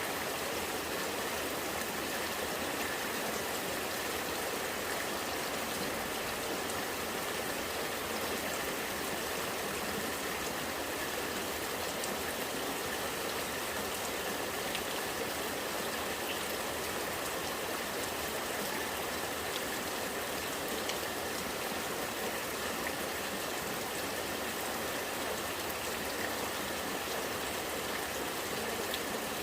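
Rainwater running and gurgling, a steady, even sound of flowing water.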